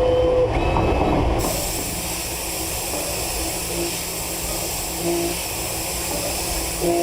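CNC lathe machining: a steady low rumble with a hiss that sets in abruptly about a second and a half in, with a few short tones over it.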